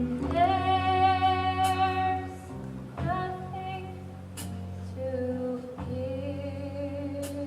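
Music from a stage musical: a female voice singing long held notes over instrumental accompaniment.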